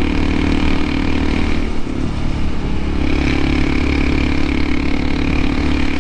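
Honda CT125 Hunter Cub's 125 cc single-cylinder engine running steadily under way, its tone breaking briefly about two seconds in and settling again about a second later.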